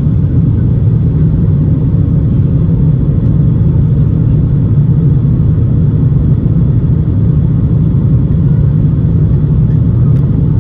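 Airbus A350 cabin noise heard from inside the aircraft: a loud, steady low rumble of the engines and airflow, unchanging throughout.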